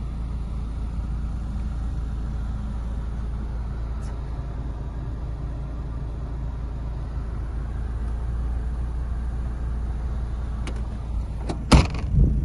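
2010 Mercedes-Benz CLC200 Kompressor's supercharged four-cylinder engine idling steadily. Near the end there is a sharp knock, followed by a couple of thuds.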